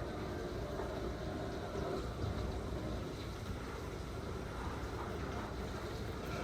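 Steady, muffled rumble of severe thunderstorm wind and heavy rain, heard from inside a house.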